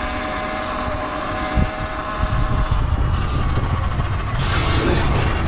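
Sur Ron electric dirt bike riding at a steady speed, its motor drive giving a steady whine of several even tones, with wind rumbling on the microphone from about two seconds in and a brief thump early on.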